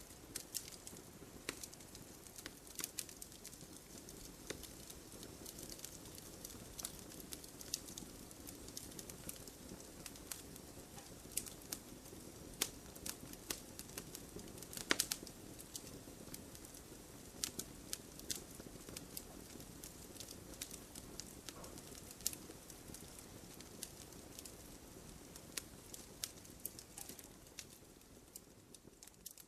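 Wood fire burning in a fireplace: irregular crackles and sharp pops, the loudest about fifteen seconds in, over a soft steady hiss of the flames.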